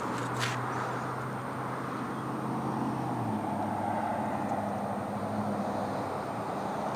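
Steady engine hum in outdoor background noise, its low tone changing about three seconds in.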